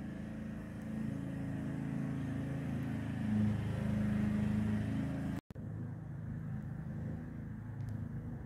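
A car engine idling steadily, a low even hum, with a short dropout about five and a half seconds in.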